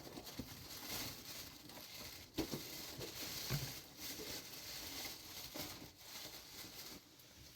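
Rustling and crinkling of handled objects, with a couple of light knocks about two and a half and three and a half seconds in.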